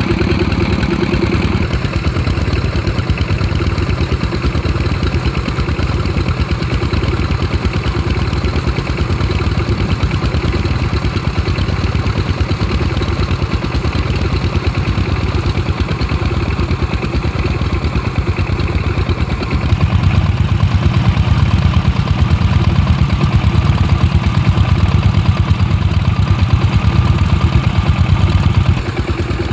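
Kubota and Dongfeng stationary diesel engines driving irrigation water pumps, running steadily with a fast, even chugging. The low throb grows louder about two-thirds of the way through and eases again just before the end.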